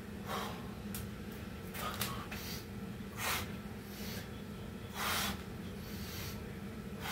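A person breathing hard during a set of Navy SEAL burpees, with a short, sharp gasp or exhale every second or so, over a steady low hum.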